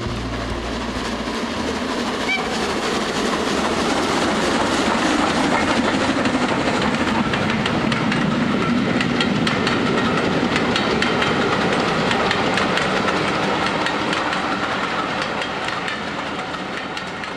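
A train running on rails with a fast clickety-clack of wheels over rail joints. It grows a little louder over the first few seconds and fades away near the end.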